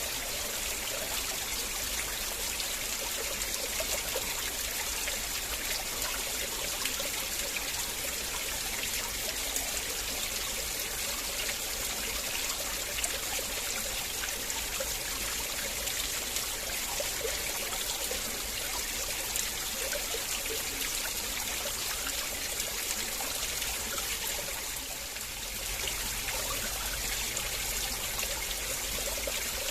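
River water flowing and trickling steadily, dipping briefly in level about 25 seconds in.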